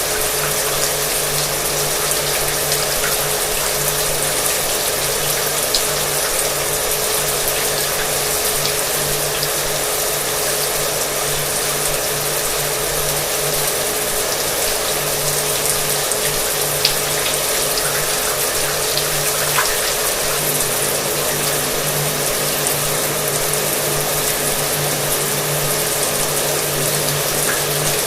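Shower water running steadily, an even hiss of spray, with a hair dryer running alongside as a steady motor hum. A few sharp ticks sound through it.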